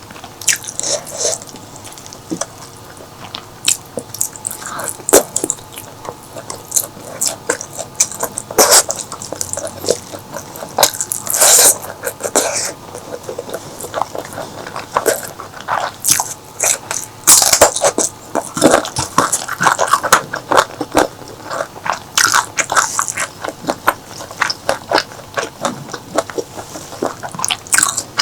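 Close-miked eating sounds: wet chewing, lip smacks and mouth clicks, bites coming every second or so, while someone eats a spicy mutton curry meal.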